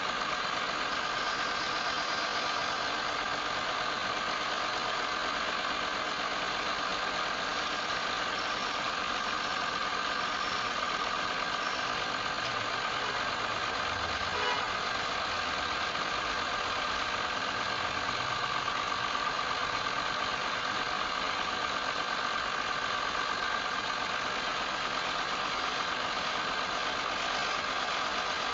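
Wood lathe running steadily: a constant motor whine over an even hiss.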